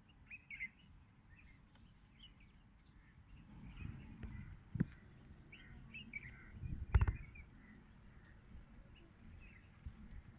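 Faint bird calls: scattered short chirps over a low, uneven rumble, with two sharp clicks about five and seven seconds in.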